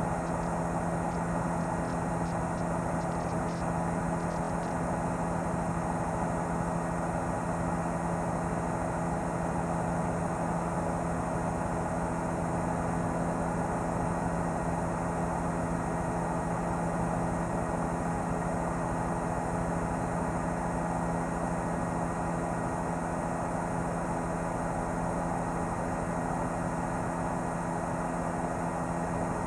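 News helicopter's engine and rotor noise, a steady, unchanging drone with several fixed tones, as picked up on the aircraft's own microphone.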